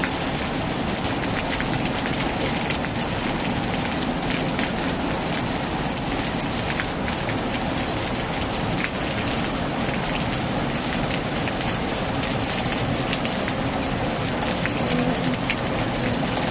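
Heavy rain falling steadily on a tin roof, with many sharp ticks of single drops striking the metal. Near the end a low hum rises in pitch.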